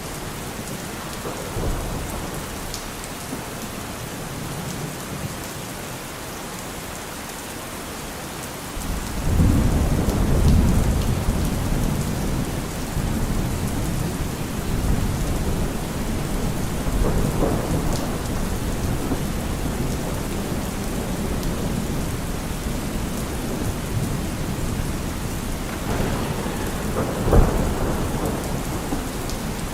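Steady rain with thunder rumbling: a long low roll builds about a third of the way in and slowly eases off, with further rumbles near the middle and again near the end.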